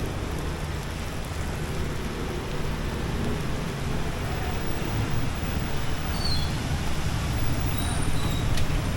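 City street traffic noise in the rain: a steady wash of passing vehicles that grows somewhat louder in the second half.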